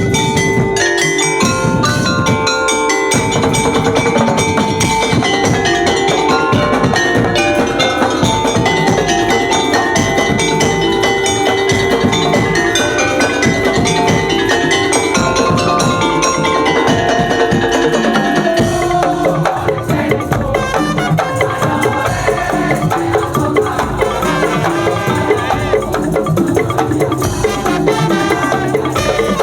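Loud, fast ensemble music of struck pitched percussion with wood-block and drum beats.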